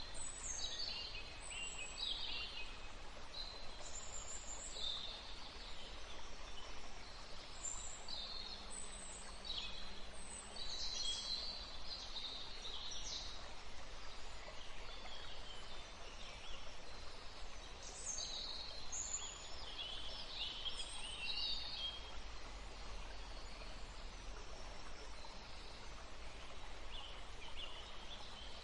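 Small birds chirping and trilling in a forest, in scattered bursts of high, short calls, over a steady low background rumble.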